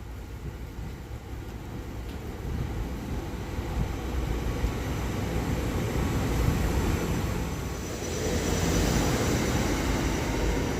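A passenger train approaching and growing louder: a steady rushing rumble that builds, with a faint high-pitched whine joining near the end.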